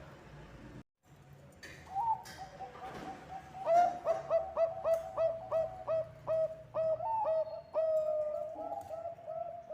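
Zebra dove (Bangkok perkutut) singing: a fast, rhythmic run of short coos at about four notes a second, each with a quick upward flick, after a brief dropout about a second in.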